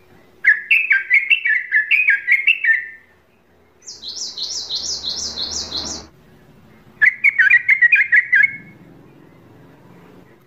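A bird singing: three phrases of quick repeated slurred notes, the middle phrase higher-pitched than the other two.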